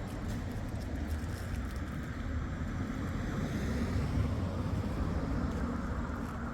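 Street traffic: a vehicle passing, its noise growing louder to about four seconds in and then easing off.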